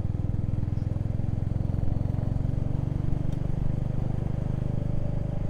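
Motorcycle engine running steadily at a cruise, heard from the rider's own bike.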